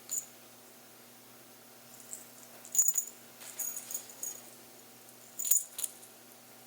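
Small metal jingling in short, irregular bursts: a light jingle at the start, a cluster from about three seconds in, and a louder pair of jingles near the end, amid cat play.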